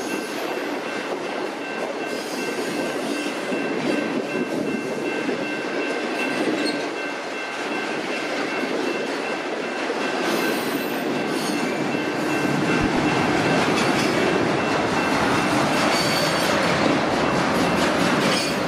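Loaded flatcars of a freight train rolling past at close range: a steady rumble of steel wheels on rail, with faint thin high tones over it in the first half. The noise grows a little louder in the last third.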